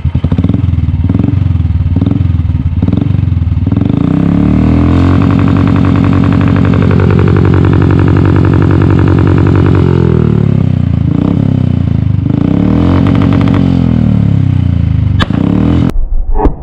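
2016 Royal Enfield Classic 350's single-cylinder engine revving through an aftermarket flame-thrower exhaust: a run of quick throttle blips, then revs held high for several seconds, dropping and rising again, with a sharp crack near the end.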